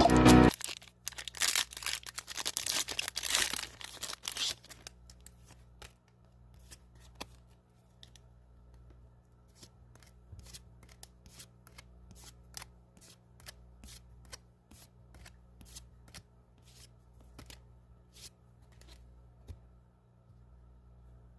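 Music stops within the first second. Then a foil booster pack of Pokémon trading cards is torn open and crinkled for a few seconds, followed by quiet, irregular flicks and clicks as the cards are slid and flipped one at a time.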